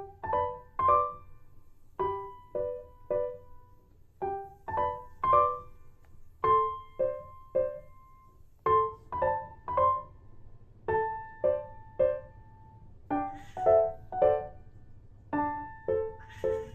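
Background piano music: a slow, gentle melody of separate notes, each struck and fading away, two or three to a second.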